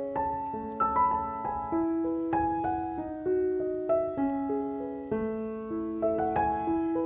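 Background piano music: a gentle melody of held notes over a soft accompaniment.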